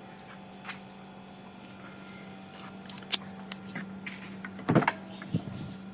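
1985 BMW 735i's electric windows being worked: a steady low hum with scattered light clicks and a louder clunk near the end.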